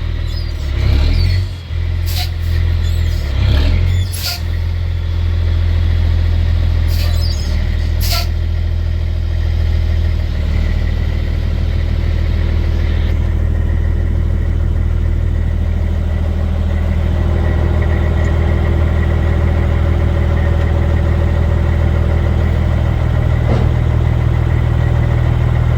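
The 2001 International 8100 dump truck's M11 Cummins diesel runs steadily while the dump bed is lowered, with several clicks and knocks in the first eight seconds.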